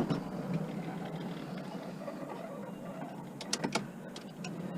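Scrap being shifted inside a van: a sharp knock at the start, then a quick run of clicks and rattles about three and a half seconds in, over a low steady hum.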